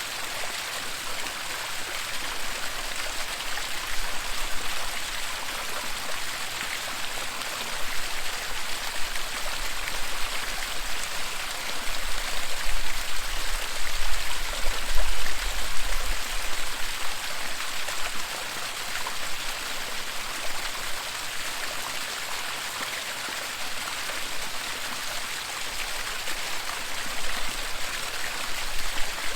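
Waterfall: a steady, unbroken rush of falling water, swelling a little louder around the middle.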